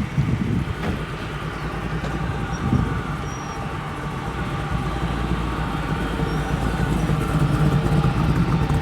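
A car engine running at low speed, growing louder over the last couple of seconds.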